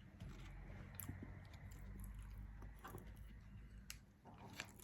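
Faint chewing of a soft chocolate muffin, with a few small mouth clicks.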